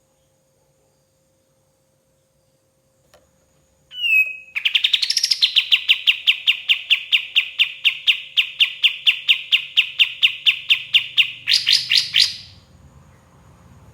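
Kapas tembak (sooty-headed bulbul) singing: after about four seconds of near silence, a short call, then a long fast run of evenly repeated chirping notes, about five a second for some eight seconds, the last few notes higher, before it stops.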